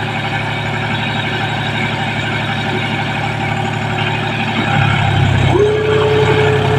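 John Deere tractor engine running steadily under load, getting louder about five seconds in. A long, steady, single-pitched tone sounds over it near the end.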